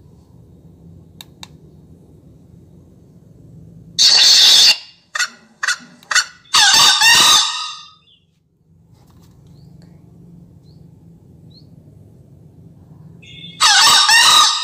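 Bird calls played loudly from a hunting bird-caller speaker: a burst about four seconds in, a few short calls, then a longer wavering call, and another burst near the end, over a faint low hum.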